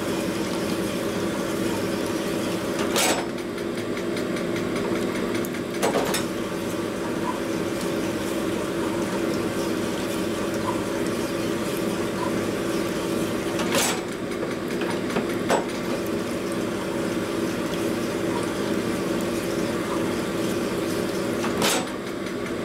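Machine-shop motor running steadily as a reamer turns in a Harley panhead rocker arm bore, with a few sharp knocks as the part jerks in the hand. The jerking is the sign of a bore that is out of round.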